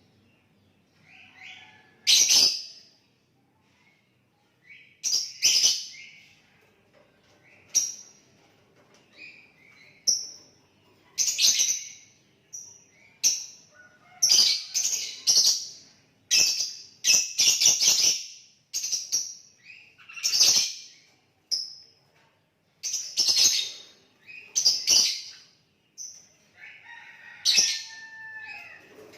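Sooty-headed bulbul (kutilang) singing: short, bright whistled phrases repeated with brief pauses, coming thicker and faster in the middle stretch.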